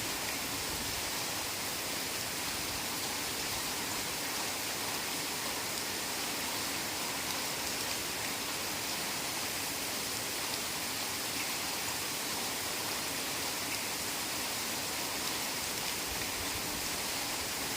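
Heavy rain pouring steadily: an even hiss, with no single drops or other sounds standing out.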